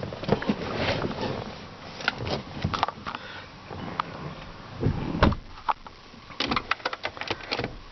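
Handling noises inside a car: irregular clicks and knocks, with a pair of heavier thumps about five seconds in.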